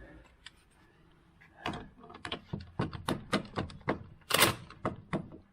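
A series of sharp clicks and knocks at irregular spacing, about a dozen, starting about a second and a half in: hand tools and car parts being handled during strut work.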